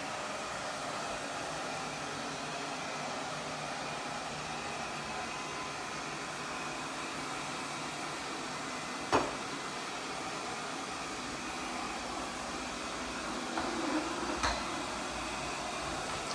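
OKP Life K2 robot vacuum cleaner running with a steady whir of its suction fan and brushes. A sharp knock comes about nine seconds in, and a few lighter knocks follow near the end.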